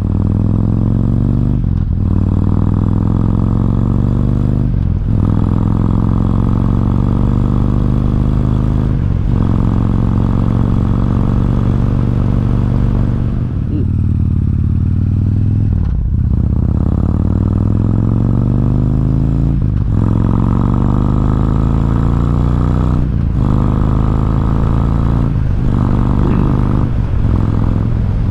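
Harley-Davidson Road King's V-twin engine pulling hard through the gears, the pitch climbing in each gear and dipping briefly at each of several shifts. The rise-and-dip happens over and over.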